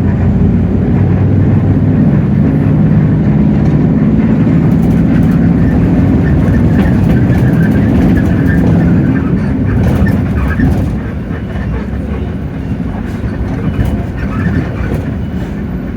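Hino J08E-VN 7.7-litre straight-six diesel of a Hino RK8JRVA-KJF city bus running under load, heard from inside the cabin, with light interior rattles. About ten seconds in the engine note drops away and the sound gets noticeably quieter.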